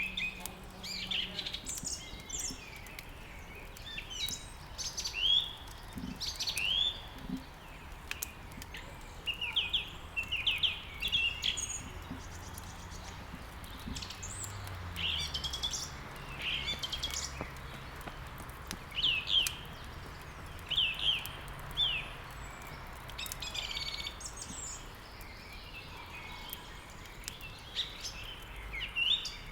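Songbirds chirping again and again in short, quick, down-sweeping notes, over faint scattered crackling from a wood fire.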